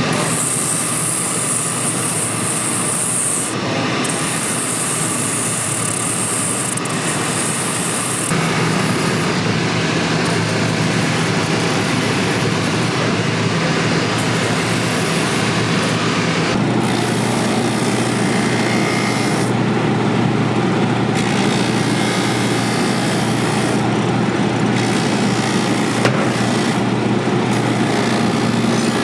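A cobbler's finishing machine running, with the steady rasp of a boot sole being sanded against it. The machine's low hum changes note twice, about eight seconds in and again about sixteen seconds in.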